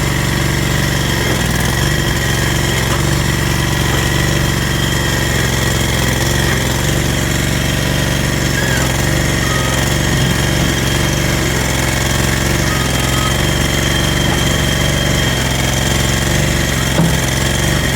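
Struck Magnatrac MH5000 mini dozer's engine running steadily under load as the machine pushes and tries to lift a heavy pickup truck with its blade. A short knock about a second before the end.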